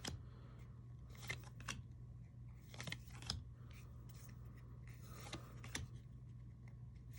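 Baseball trading cards being slid and flipped one behind another by hand, giving short papery swishes and light clicks at uneven intervals over a faint steady low hum.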